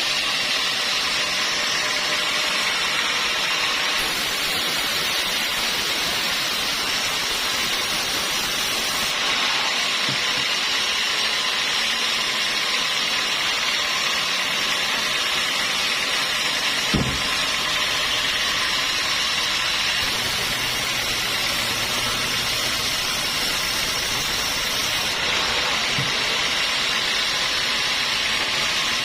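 Sawmill saw running steadily, with one sharp knock a little past halfway.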